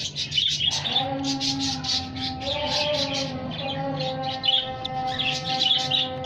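Cockatiels chirping in rapid, repeated short calls, over steady held tones that change pitch a couple of times.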